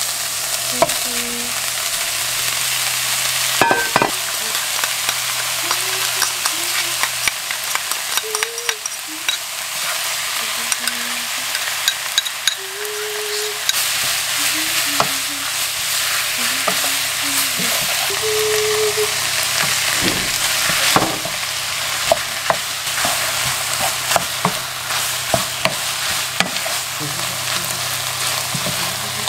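Minced meat, leek and tofu cubes sizzling in a hot nonstick wok while a wooden spatula stirs them, scraping and clicking against the pan, with a louder knock about four seconds in.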